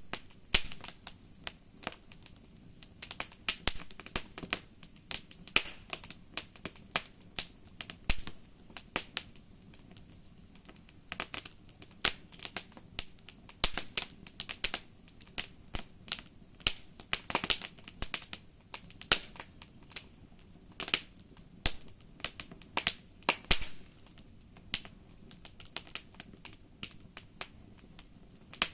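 Campfire crackling: irregular sharp pops and snaps of burning wood over a faint steady hiss, coming thicker in the middle stretch.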